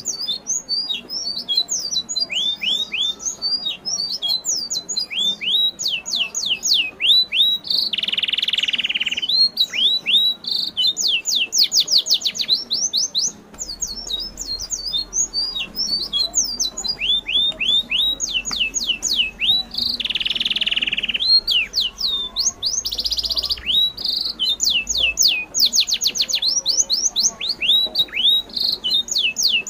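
Birds chirping continuously in quick runs of short, falling high notes, with a brief hiss twice.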